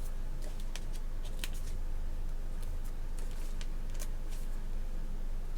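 Paper stickers and planner pages being handled: faint scattered ticks and rustles, over a steady low hum.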